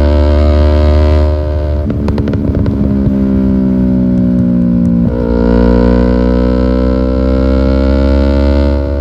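Yamaha R6 inline-four sportbike engine running through a newly fitted aftermarket exhaust, held at steady revs. The note turns rough and uneven for about a second and a half after the first second, then settles back to a steady tone.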